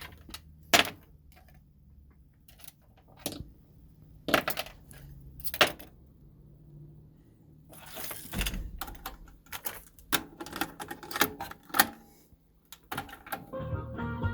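Scattered sharp clicks and knocks from handling a Sony TC-WE475 cassette deck. They come a second or two apart at first, with a short rustling noise about eight seconds in, then a quicker run of clicks near the end.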